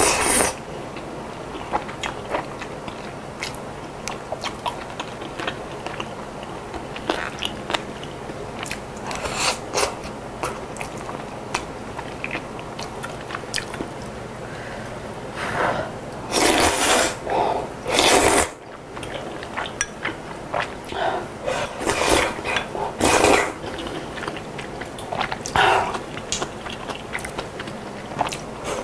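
Close-miked eating: chewing and crunching of chicken noodle soup and cabbage kimchi, with small wet clicks throughout and a few louder bursts in the second half.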